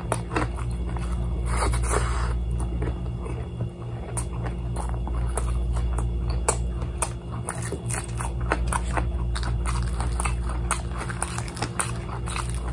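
Close-up chewing and crunching of crispy fried chicken, with irregular sharp crunches throughout. A steady low hum runs underneath.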